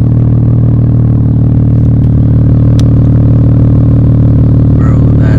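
Infiniti Q50 3.0t twin-turbo V6 idling, loud and steady, through a straight-piped exhaust with the muffler and resonator removed.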